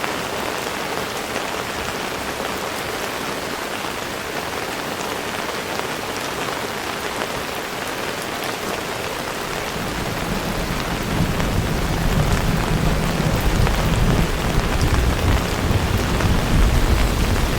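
Heavy rain falling steadily. About ten seconds in, a low rumble of thunder builds and the sound grows louder.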